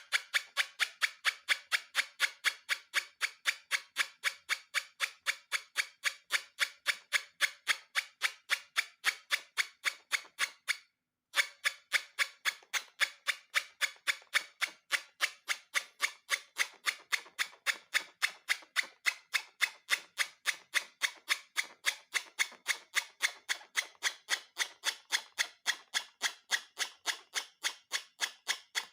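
Steady, evenly spaced ticking, about three ticks a second, pausing briefly about eleven seconds in.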